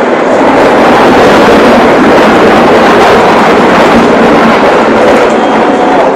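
Military jet aircraft passing low overhead in a flypast: a loud, steady engine roar that swells in the first second and holds.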